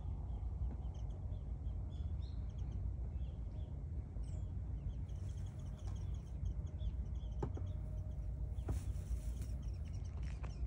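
Small birds chirping, short repeated calls, over a steady low outdoor rumble, with a few short clicks in the second half.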